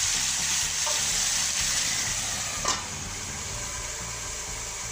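Raw chicken pieces frying in hot oil in a pan: a steady sizzle. About halfway through there is a short click and the sizzle continues quieter, the pan now covered with a steel lid.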